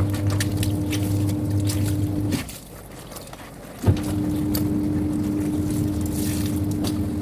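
Semi-automatic twin-tub washing machine's wash-tub motor running steadily through the rinse. It stops about two and a half seconds in and starts again with a click about a second and a half later, the pause before the wash tub turns the other way.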